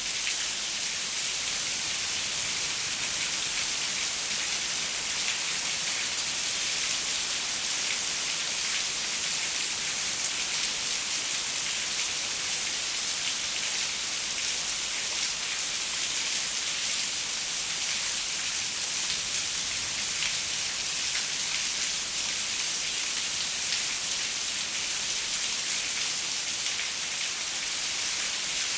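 Steady rain falling on a window, an even hiss with fine pattering of drops and no thunder.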